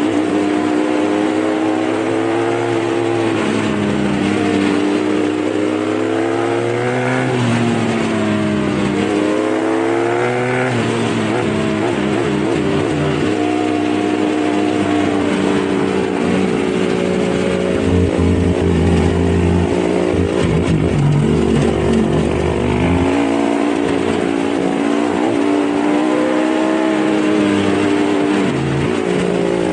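Dirt bike engine running on an off-road trail, its pitch rising and falling over and over as the throttle is opened and closed.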